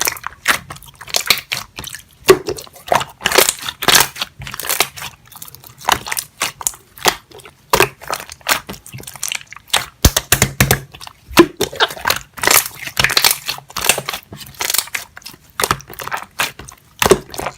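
Clear slime being squeezed, stretched and pressed by hand, giving irregular wet clicks and air-bubble pops, several a second.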